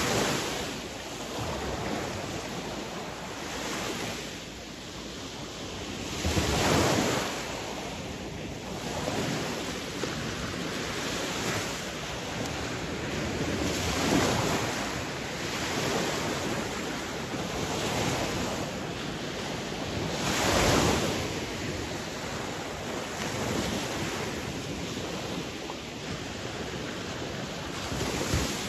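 Sea waves breaking and washing in, swelling every few seconds, with a noticeably louder wave about 7 seconds in and another about 21 seconds in.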